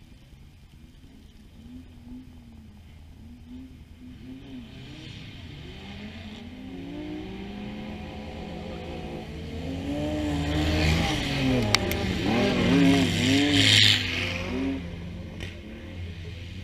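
Off-road competition car engine revving hard, its pitch rising and falling again and again as the throttle is worked, growing louder as the vehicle approaches and loudest a few seconds before the end, then falling away. A single sharp click near the middle.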